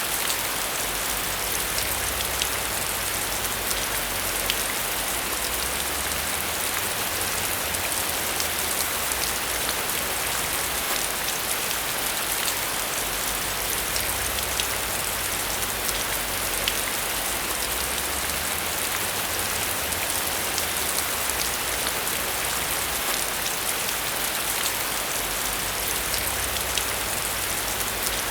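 Steady heavy rain falling on a surface, a dense even hiss with many small sharp drop ticks, over a low rumble that swells and fades every few seconds.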